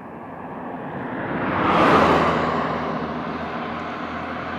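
A vehicle passing by: its noise swells to a peak about two seconds in, then fades away.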